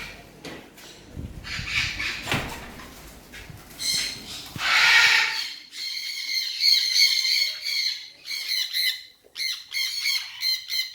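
Parrots squawking in a rapid run of short, repeated calls, starting about five seconds in after a low rumbling noise stops.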